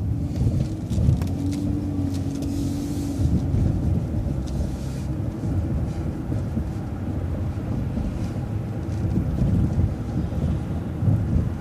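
City transit bus driving through a turn: a steady low engine and road rumble, with a faint whine that rises slightly over the first few seconds and two short hisses a couple of seconds apart.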